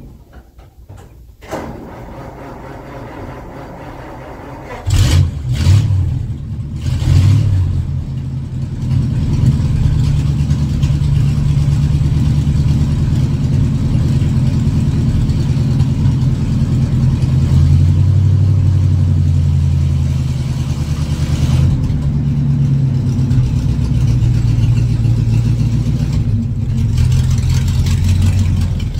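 1952 Ford F3 pickup's flathead V8 starting up about five seconds in, revving up a couple of times, then running steadily.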